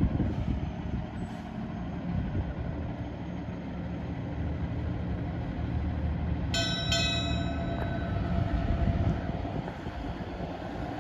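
Fire engine's low engine rumble, with its air horn sounding a chord of several tones about six and a half seconds in for around two seconds.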